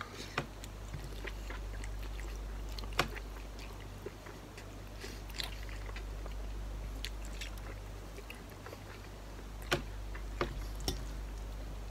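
A man eating instant ramen noodles from a fork: chewing and mouth noises, with a few sharp clicks, the loudest about three seconds in and several more near the end, over a steady low hum.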